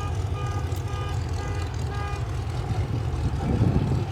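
A motor vehicle's low rumble, with a short electronic beep repeating about twice a second that stops about two seconds in.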